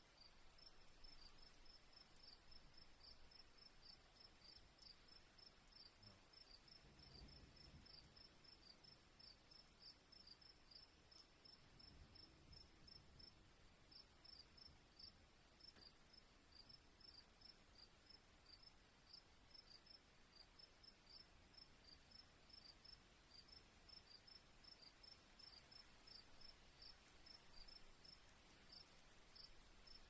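Crickets chirping faintly: a rapid, regular chirp that pauses briefly about 13 seconds in, over a steady high insect hiss.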